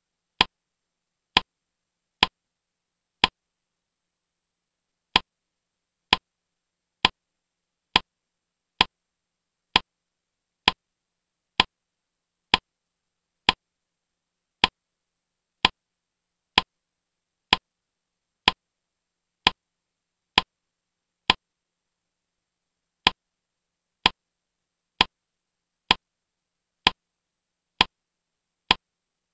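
A short, sharp click repeats nearly once a second, one for each letter tile that pops into the slideshow grid, with two brief pauses of about two seconds.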